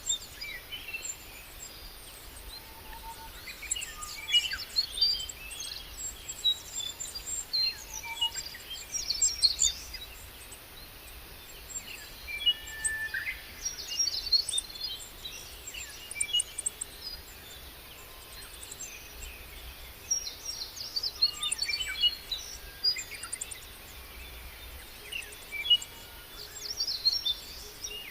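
Songbirds chirping and trilling in repeated bursts of several seconds, with short pauses between them, over a steady outdoor background hiss.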